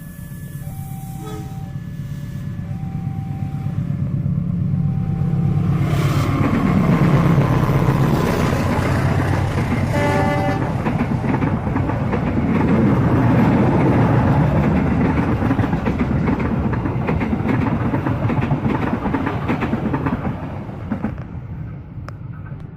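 Alternating warning tones of a level crossing alarm, then a KAI CC204 diesel-electric locomotive approaching with its engine rumbling, giving one short horn blast about ten seconds in, and passing with its carriages clattering over the rail joints before fading near the end.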